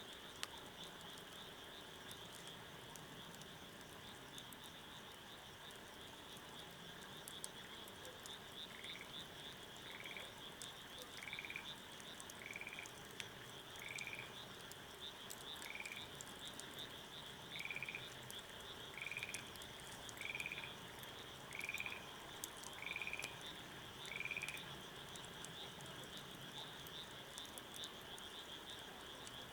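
A frog croaking about a dozen times at an even pace, a little over a second apart, from about a third of the way in to about two thirds of the way through, over a steady high-pitched chorus and faint scattered clicks.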